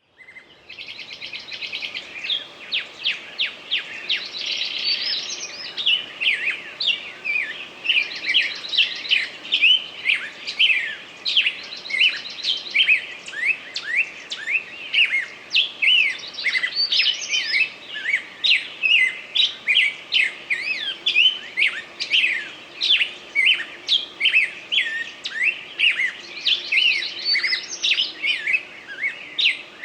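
A flock of small birds chirping and twittering in dense, overlapping calls. Rapid buzzy trills break in at intervals.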